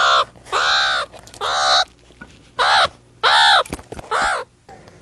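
Meerkat calling repeatedly: a run of about five loud calls, each rising and then falling in pitch, with short pauses between them.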